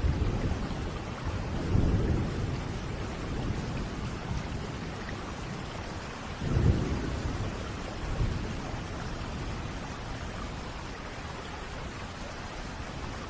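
Steady rain with rolling thunder: one low rumble about two seconds in and a louder one about six and a half seconds in, after which the thunder dies away and the rain carries on.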